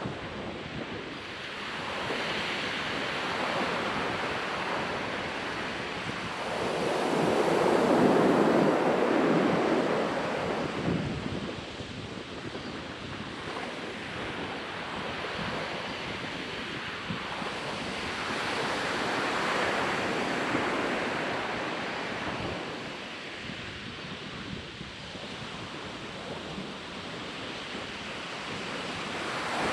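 Ocean surf breaking and washing up a sandy beach, the noise swelling and ebbing every several seconds, with the biggest wave about eight seconds in and another building near the end. Some wind on the microphone.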